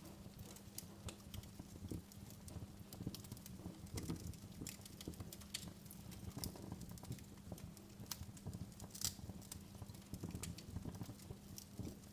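Wood fire crackling, with irregular sharp pops and snaps over a faint low steady hum.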